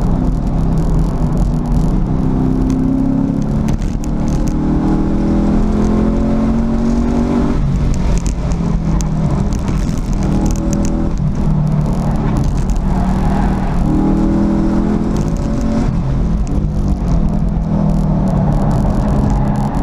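2014 Camaro SS 1LE's 6.2-litre V8 heard from inside the cabin under hard acceleration on a track lap. The engine rises in pitch several times, with short drops between the climbs.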